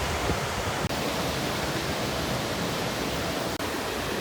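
Steady rushing noise of wind and open sea on a cruise ship under way, with a buffeting low rumble. The sound cuts out for an instant about a second in and again about three and a half seconds in.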